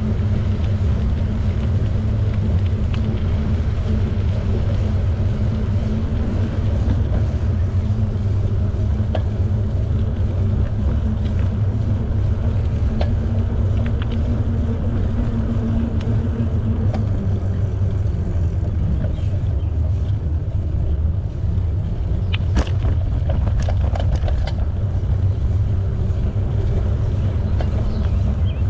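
Riding noise from a bicycle on the move: steady low rumble of wind over the camera microphone and tyres rolling, with a faint hum that fades partway through and a few sharp clicks in the last third.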